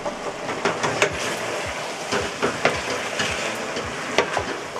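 Meat and vegetables frying in a stainless steel pot, with a steady sizzle. A wooden spoon stirs through the pot, making irregular knocks and clacks against its sides.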